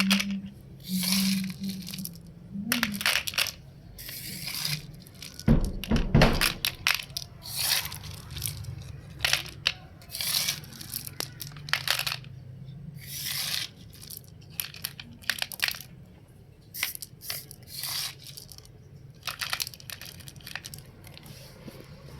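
Gravel being scooped and poured into a toy truck's bed, crunching and rattling in irregular bursts, with a low steady hum underneath.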